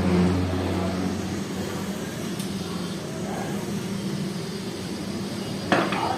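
Steady low mechanical hum over background noise, with one sharp knock that rings briefly near the end.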